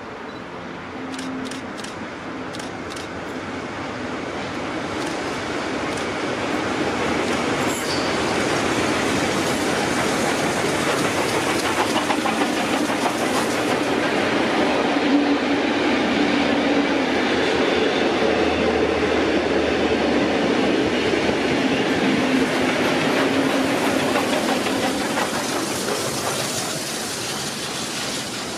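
Vintage steam-hauled passenger train of wooden carriages rolling past, its wheels clattering over the rail joints. It grows louder over the first several seconds as the train draws level, then eases slightly near the end.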